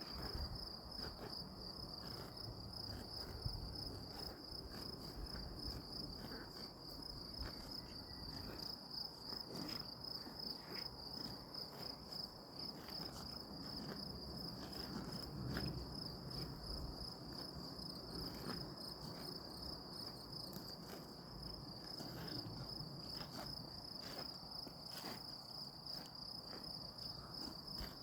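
Crickets chirring: one continuous high-pitched trill that holds steady, with a faint low rumble underneath.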